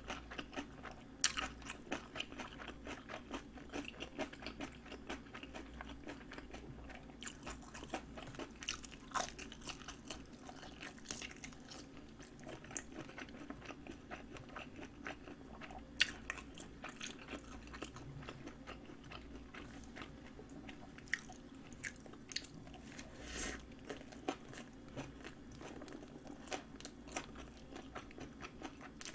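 A person chewing and biting spicy napa cabbage kimchi and sausage, with irregular crisp crunches and mouth clicks coming in clusters.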